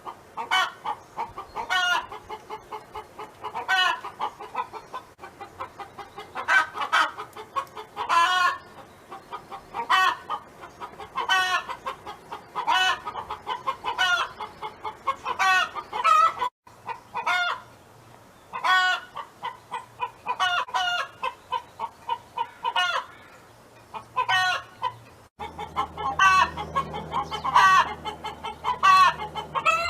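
A domestic hen singing: a running series of short clucks broken every second or two by louder, drawn-out calls. A steady low hum joins in near the end.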